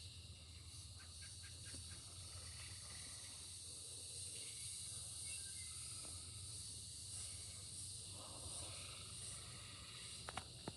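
Faint steady high-pitched outdoor hiss, with a few faint clicks a second or two in and two sharper clicks near the end.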